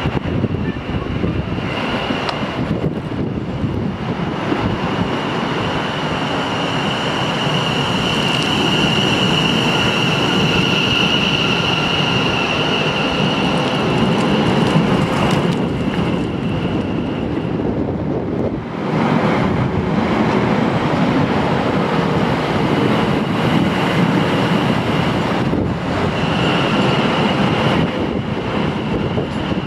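South Western Railway electric multiple-unit train running past close by along the platform: a steady rumble of wheels on rail under a high steady whine. The sound dips briefly twice, about two thirds of the way through.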